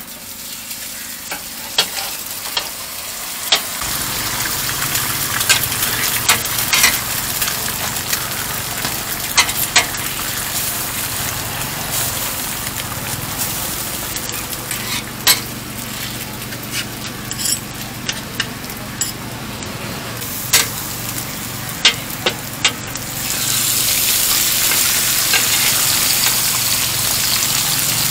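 Eggs and pork jerky sizzling on a hot flat-top griddle, with scattered sharp clicks and scrapes of a metal spatula against the steel. The sizzle grows louder near the end.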